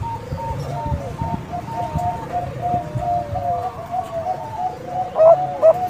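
Young Bangkok-strain zebra dove (perkutut) cooing: quick runs of short staccato coos over longer arching notes, with louder, slower coos at about three a second starting about five seconds in.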